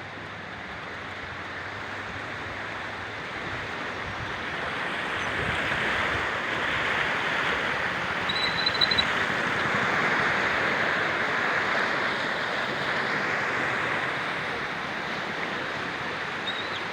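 Floodwater rushing: a steady watery hiss that swells over the first few seconds and eases near the end.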